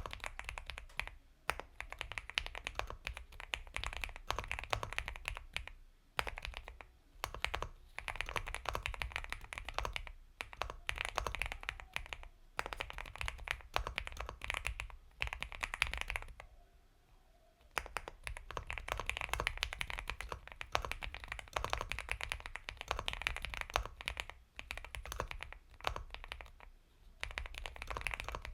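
Fast typing on an Epomaker x Feker Galaxy 80 mechanical keyboard with Gateron Milky Yellow Pro linear switches: dense runs of soft keystrokes in bursts of a few seconds, broken by short pauses, the longest just past halfway.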